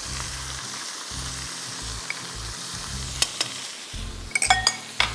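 Chicken pieces frying in oil in a nonstick wok, sizzling steadily as a spoon stirs them. A few sharp clicks of the spoon against the pan come about three seconds in and near the end.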